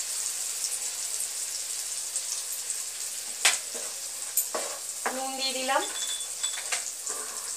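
Green pea paste sizzling as it fries in hot oil in a pan, a steady hiss, while a wooden spatula stirs and scrapes it against the pan, with a couple of sharp knocks about three and a half and four and a half seconds in.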